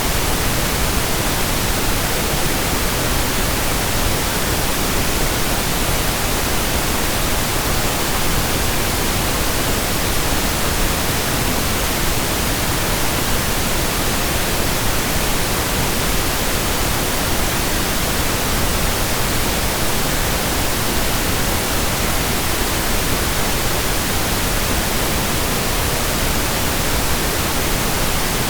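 Steady pink noise: an even, unchanging hiss spread across the whole range from deep lows to highs.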